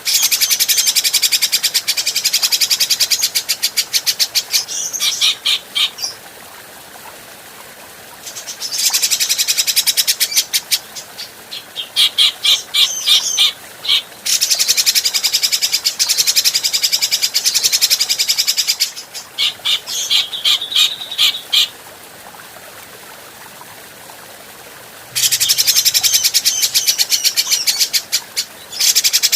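Cucak jenggot (brown-cheeked bulbul) singing: long, loud bouts of fast chattering repeated notes, with two pauses of a few seconds between bouts in which only a faint hiss remains.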